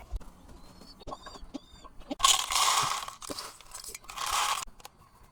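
A few short, high bird chirps, followed by two loud, harsh bursts of crunching or rustling noise, each lasting under a second.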